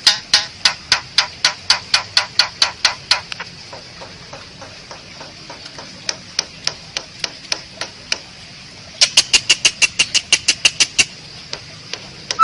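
Asian pied starling giving rapid runs of sharp clicking notes, about six a second, which stop about three seconds in. Fainter scattered clicks follow, then a faster run of clicks near the end.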